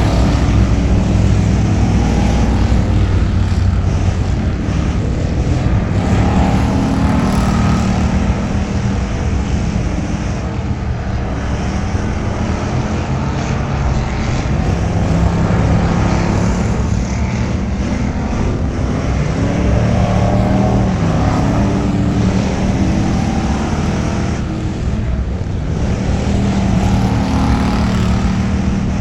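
Crown Victoria race car's V8 engine running hard on track laps, its pitch climbing and dropping every few seconds as the throttle comes on and off, over steady road and wind noise.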